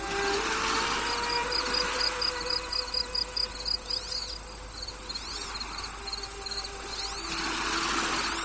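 Crickets chirping in a steady rhythm of high pulses, about four or five a second, over a constant high hiss. There are a few short rising-and-falling whistles and soft sustained low tones underneath.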